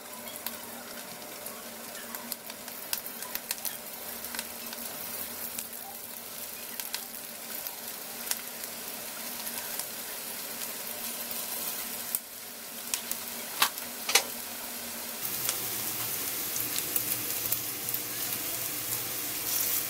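Tuna patties frying in shallow sunflower oil in a pan: a steady sizzle that grows louder over the stretch, with a few sharp clicks.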